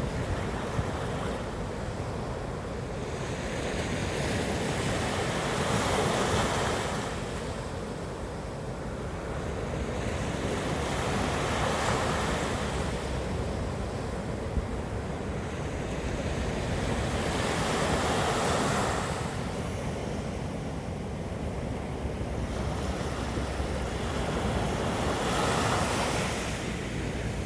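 Black Sea waves breaking on the shore: four swells of surf about six seconds apart over a steady wash of water.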